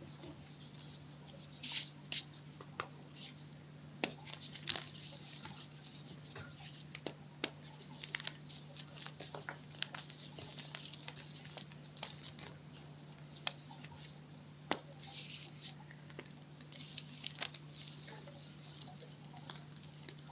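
Irregular crunching and crackling with sharp snaps scattered through, typical of chalk being crushed, over a steady low hum.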